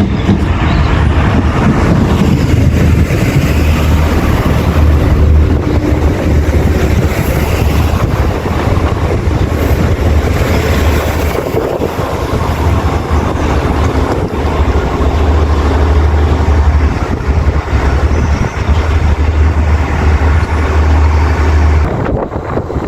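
Diesel passenger train running through at speed: a loud, steady mechanical rush with a heavy low rumble throughout, easing slightly near the end.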